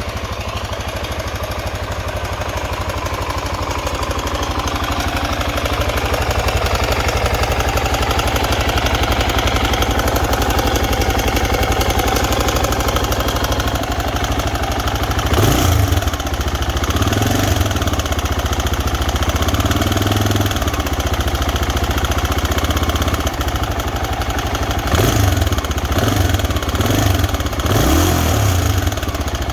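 Honda NX250 single-cylinder engine idling steadily, blipped several times in the second half, with short rises in revs that fall straight back to idle. The owner presents it as making a weird sound.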